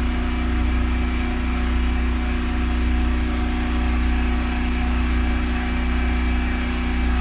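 Steady, unbroken machine drone with a strong low hum and a steady mid tone, like an engine or motor running at constant speed.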